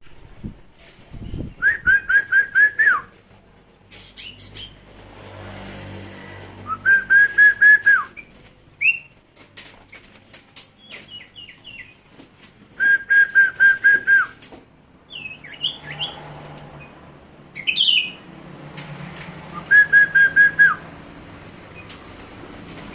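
A sirtu songbird calling: four bouts of six or seven quick, evenly repeated whistled notes, each bout about a second long and several seconds apart, with short chirps in between.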